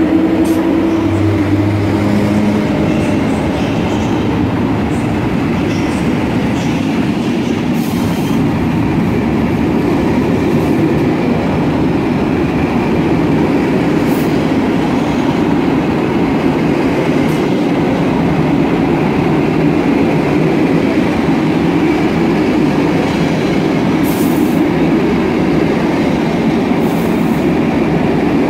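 Passenger coaches of a departing train, hauled by an EU07 electric locomotive, rolling past along the platform: a steady rumble of steel wheels on rail with occasional clicks. A low hum is heard in the first few seconds, then fades.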